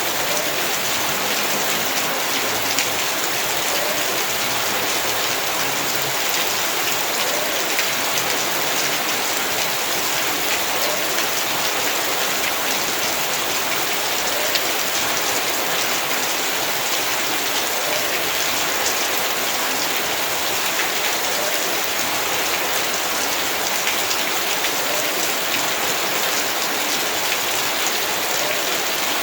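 Heavy rain falling steadily and evenly on surfaces, a dense hiss of drops with fine patters throughout.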